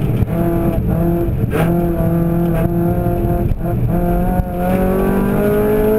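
Opel Corsa 1.4 16V four-cylinder engine heard from inside the caged cabin, working hard at race pace. Its note dips briefly about once a second, then rises steadily in pitch under acceleration near the end.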